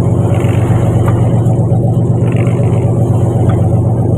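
Fishing boat's engine running at a steady speed, a loud, even low drone with no change in pitch.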